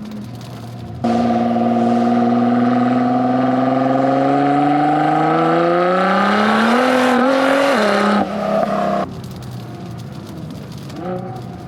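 Nissan GT-R R35's twin-turbo V6 accelerating hard. The engine note comes in loud about a second in and climbs steadily in pitch for about six seconds, steps down in pitch near eight seconds, then falls back suddenly to a quieter, steady note.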